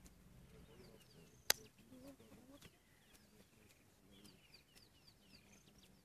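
Faint wild birdsong: many short, quick falling chirps, with a single sharp click about a second and a half in.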